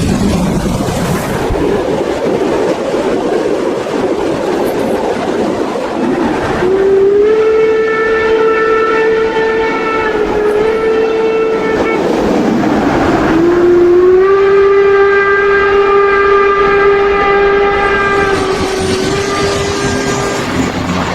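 Model steam locomotive's sound decoder sounding two long steam-whistle blasts, each lasting several seconds, over the rolling clatter of the model train on the track.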